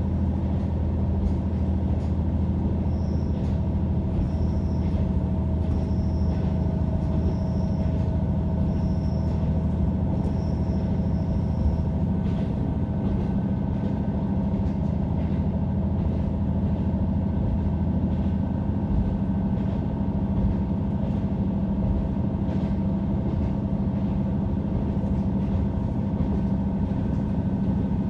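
Diesel railcar heard from inside the passenger cabin, running at a steady speed: a steady low engine drone with the rumble of the wheels on the rails and faint scattered clicks. A faint high pip repeats about every one and a half seconds during the first half.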